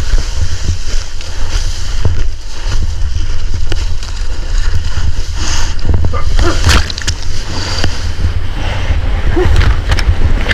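Seawater splashing and sloshing around a surfer's GoPro, with several sharp splashes over a constant low rumble on the microphone.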